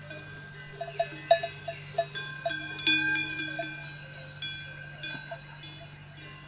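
Metal bells clanking and ringing at several pitches, with a quick run of knocks between about one and three and a half seconds in. A low steady hum runs underneath.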